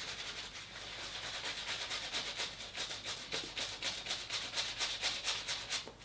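Shaving brush swirled fast in the palm of the hand, whipping sheep's milk shaving soap into lather: a quick, rhythmic wet swishing at about four or five strokes a second. The lather is building up fast.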